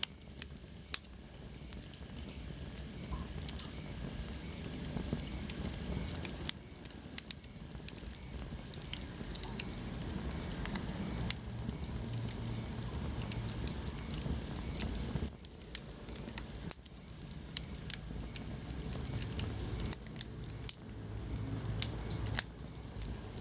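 Wood fire burning in a fireplace, crackling with frequent sharp pops over a steady low rumble of flames. A faint high whistle slides down in pitch during the first few seconds.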